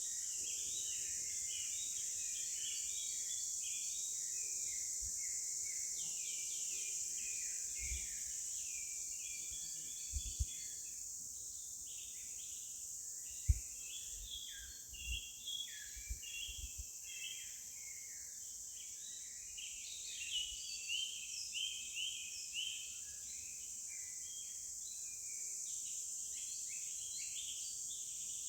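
Many birds chirping over a steady high insect drone, with a few low knocks around the middle.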